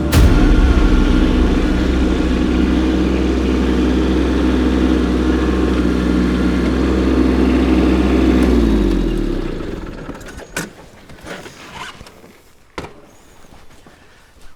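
Kubota B2601 compact tractor's diesel engine running steadily, then shut off about eight seconds in, its pitch falling as it winds down. A few sharp clicks follow in the quiet afterwards.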